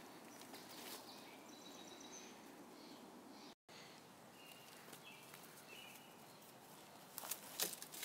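Faint outdoor ambience with a steady hiss and a few short, thin bird chirps, and a handful of sharp clicks near the end. The sound drops out completely for an instant a little past halfway.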